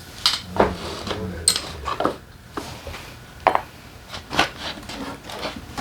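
Irregular clinks and knocks of metal tools and engine parts being handled, set down and knocked together during engine disassembly.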